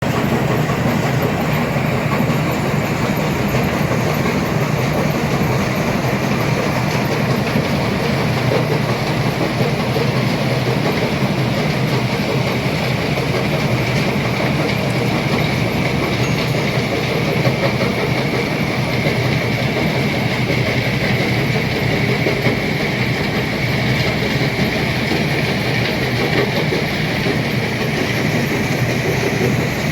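Hino 500 dump truck's diesel engine running steadily under a full load while climbing an incline, a low drone with a steady high whine over it.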